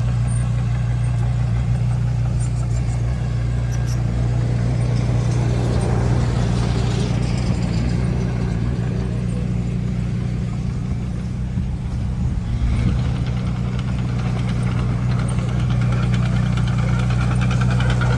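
Bulldozer's diesel engine running with a steady, deep drone. Higher-pitched noise swells over it about six seconds in and again near the end.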